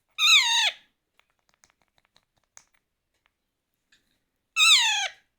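A month-old parrot chick calling twice, each a short call that falls in pitch, with faint ticks between the calls.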